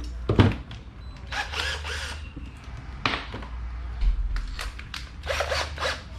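Tools and small metal parts of an electric fan motor clicking, clinking and knocking as they are handled, a string of separate sharp taps, some with a brief metallic ring, over a low steady hum.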